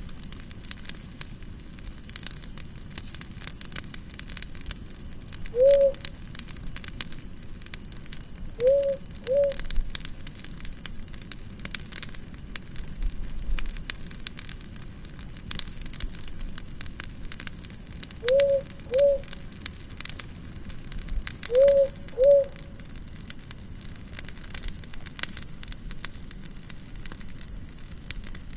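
Campfire of burning wood crackling and popping throughout, with a cricket chirping in short quick bursts a few times. Several short low calls from an animal, mostly in pairs, come through in the middle stretch.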